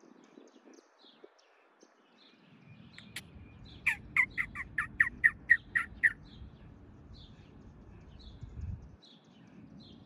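Birds chirping: faint short chirps repeat throughout, and about four seconds in one bird gives a rapid run of about nine loud, sharp calls, roughly four a second, lasting about two seconds. A low rumble runs underneath through the middle.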